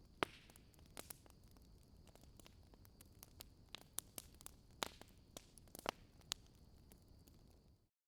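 Wood fire crackling faintly, with irregular sharp pops over a soft hiss, then cutting off suddenly to silence near the end.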